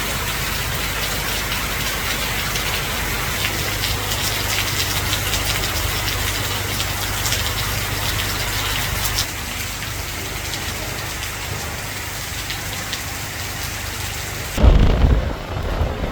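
Heavy rain pouring steadily, with many sharp ticks of drops striking nearby surfaces. About a second and a half before the end, the rain cuts off abruptly and a louder, low-pitched sound takes over.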